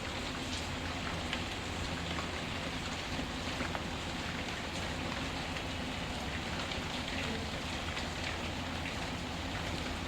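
Steady rain falling, with scattered small crackles and pops from a wood fire.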